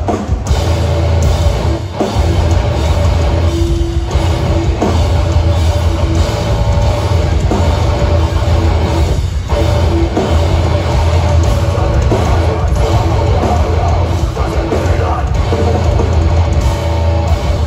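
Hardcore band playing live at full volume: heavy distorted guitars and bass over a pounding drum kit, with a few short breaks in the riff.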